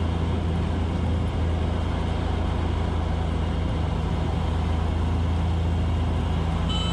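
Cessna 182 cabin noise: the piston engine and propeller running at low power as a steady low drone during the landing rollout.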